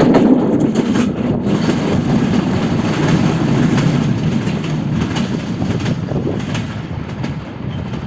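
Intercity passenger train passing at speed, its wheels clattering over the rail joints with many sharp clicks. The noise slowly fades as the train moves away.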